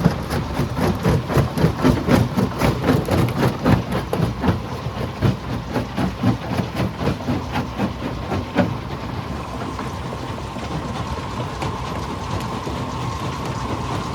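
Stone crusher machine crushing rock: a rapid, irregular clatter of knocks from stone breaking and tumbling. The clatter thins out about two-thirds of the way in, leaving a steadier machine noise with a faint whine.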